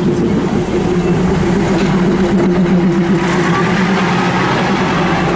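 Diesel railcar engine running steadily with an even low hum.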